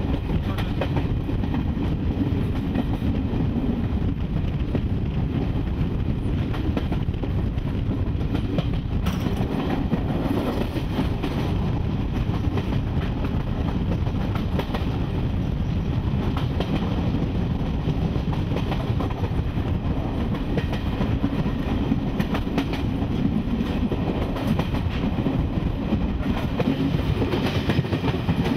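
Passenger train running at speed, heard from on board: a steady rumble with a light clatter of the wheels on the track.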